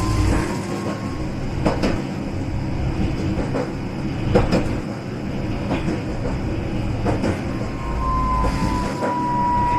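Toyohashi Railway streetcar running on its track, with irregular sharp clacks of the wheels over rail joints and crossings. A thin, steady wheel squeal, typical of a tram taking a curve, is heard briefly at the start and again near the end.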